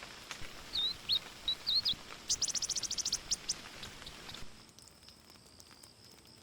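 A small bird calling: a few short whistled notes, then a quick trill of sharp chirps. Insects start a steady high buzz near the end.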